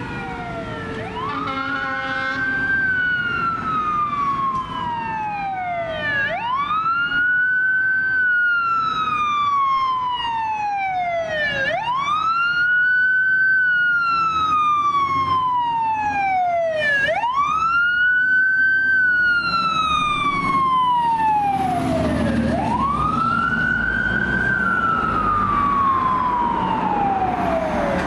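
Fire engine siren wailing as the engine responds: its pitch sweeps up quickly and glides slowly down again, about every five and a half seconds. A low truck rumble grows louder around two-thirds of the way through.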